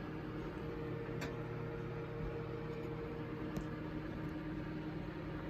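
Microwave oven running with a steady hum, with faint ticks about a second in and again past halfway. One higher tone in the hum drops out a little past halfway.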